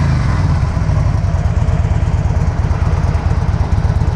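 2005 Harley-Davidson Ultra Classic's Twin Cam 88 V-twin idling steadily through its factory exhausts, a low, fast, even pulsing. It runs smoothly with no unusual engine noise, by the seller's account.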